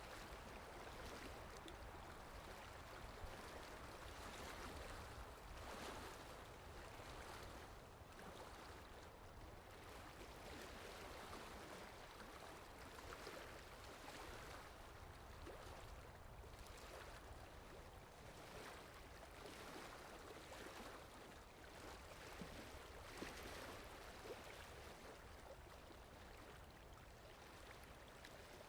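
Faint water sound effect: a steady wash of flowing water that swells and eases gently.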